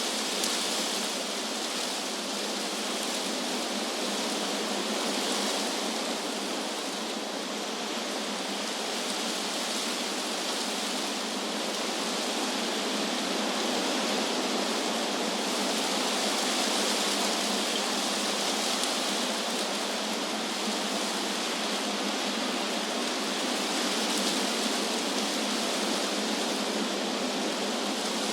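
Wind blowing through trees: a steady rustling hiss that swells and eases gently every several seconds.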